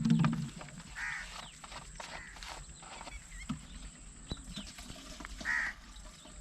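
Outdoor rural ambience with a bird calling twice, about four seconds apart, and scattered light clicks. A short, low, pitched call sounds right at the start. No engine is running.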